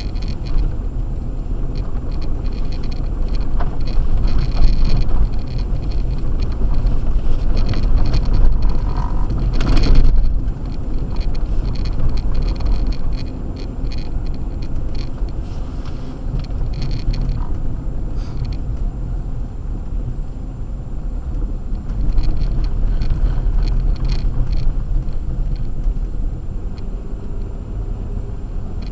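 Acura MDX driving on a snow-covered road on Sumitomo Ice Edge winter tires: a steady low rumble of tyres and engine with a flickering crackle over it. A single sharp knock comes about ten seconds in.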